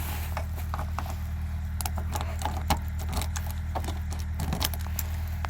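Ford Mustang LX engine idling steadily on a cold start, with a run of sharp light clicks from about two seconds in.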